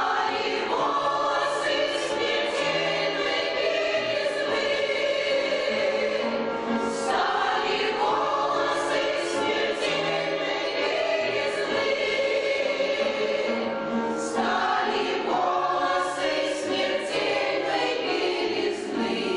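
Amateur veterans' choir singing a song in sustained phrases, with short breaks between phrases about 7 and 14 seconds in.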